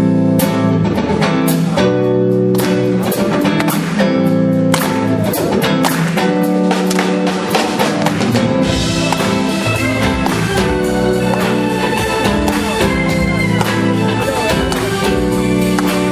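Live band music, with sustained chords and regular drum hits; the sound grows fuller about nine seconds in.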